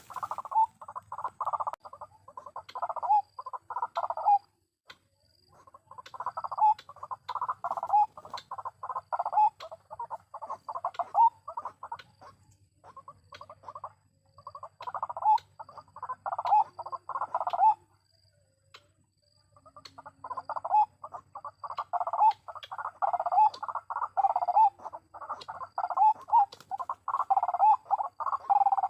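White-breasted waterhen calling: a rapid, repeated croaking in long bouts, broken by a few short pauses.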